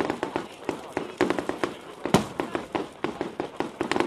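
Fireworks going off in rapid succession: a dense run of sharp bangs and crackles, the loudest about two seconds in.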